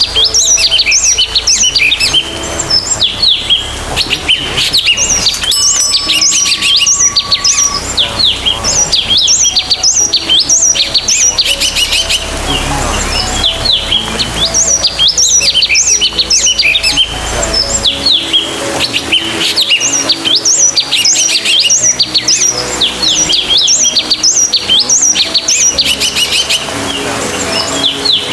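Sultan tit calling: loud runs of rapid, sharp, high chirps repeated burst after burst, with short breaks between bursts.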